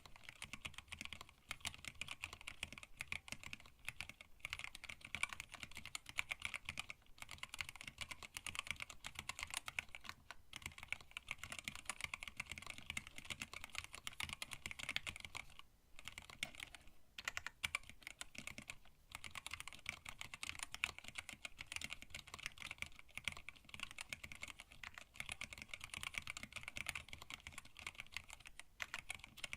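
Steady, fast typing on a hand-wired split mechanical keyboard with Tealios linear switches, blank PBT keycaps and a stacked acrylic case: a dense run of keystroke clacks, broken by a few brief pauses.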